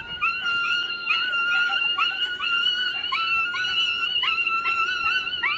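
Dog whining excitedly: a high, thin, held whine broken by many short rising and falling yelps a few times a second, the sound of a dog greeting its returned owner.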